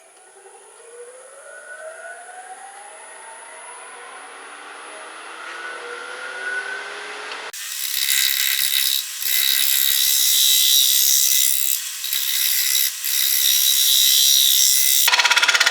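A wood lathe speeding up with a rising whine. About seven and a half seconds in, a turning tool held at about 45 degrees starts a shear cut on the spinning spalted oak bowl blank: a loud, scraping shave of wood that breaks off briefly a few times.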